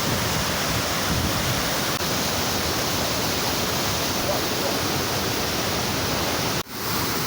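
Waterfall rushing as a loud, steady roar of falling water. It briefly cuts out near the end and comes straight back.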